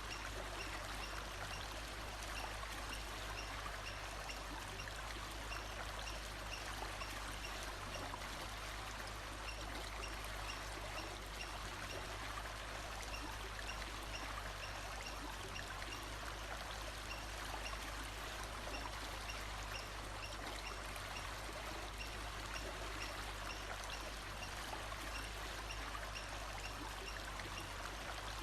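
Flowing stream water, a steady even rush with no breaks. Over it a faint high note repeats at even intervals.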